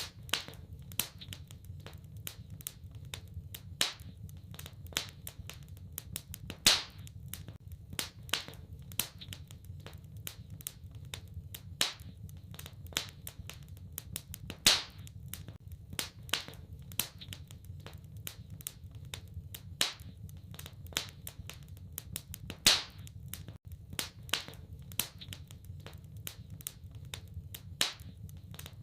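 Wood fire in a fireplace crackling: a steady run of small sharp snaps, a few each second, with three much louder pops about eight seconds apart, over a low steady rumble.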